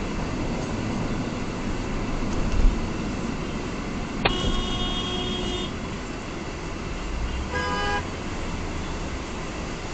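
Steady road and engine noise from a moving car, with a sharp click about four seconds in followed by a car horn sounding for about a second and a half, then a second, shorter honk about a second and a half later.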